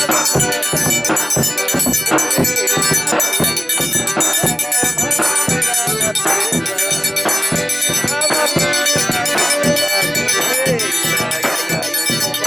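Live instrumental forró pé-de-serra: a reedy accordion melody over a steady low drum beat, with light shaken or struck percussion on top.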